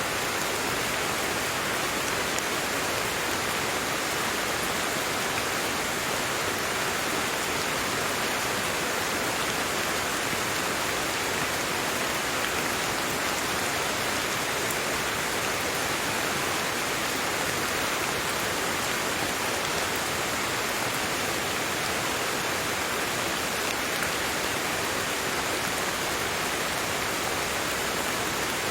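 Steady rain falling, an even hiss of drops with faint scattered pattering.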